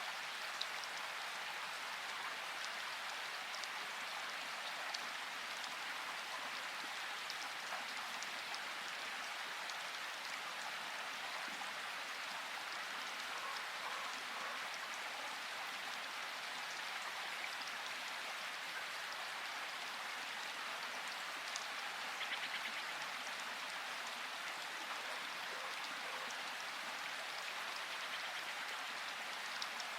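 Steady rain falling, with scattered single drops ticking on a surface.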